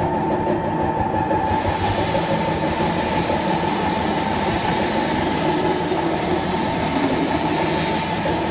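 Hydraulic tire ring cutting machine running: a steady mechanical hum with a constant whine. About a second and a half in, a loud hiss joins it and holds until near the end.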